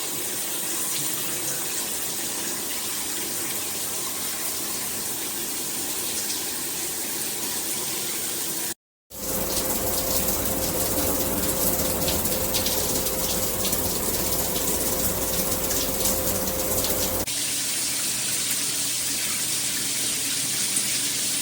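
Water spraying steadily from a Cobbe 8-function shower head. The spray cuts out briefly about nine seconds in and returns louder and fuller; about seventeen seconds in the sound changes again to a lighter hiss.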